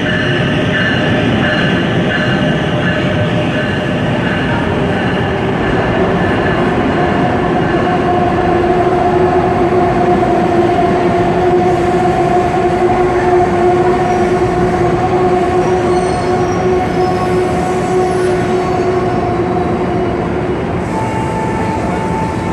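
New Jersey Transit commuter train pulling into the platform and slowing to a stop: a loud, steady rumble from the locomotive and passing cars. From about five seconds in until near the end, a steady two-note squeal sounds from the train.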